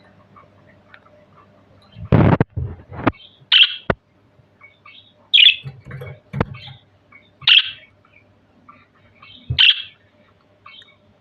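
Budgerigar chirping: short high chirps about every two seconds, with a louder harsh burst about two seconds in and a few sharp clicks between the calls.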